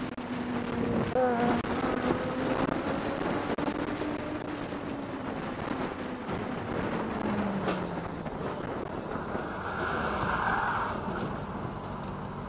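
A road vehicle running, with steady engine and road noise; the engine note holds, then falls slowly about seven seconds in as the vehicle eases off.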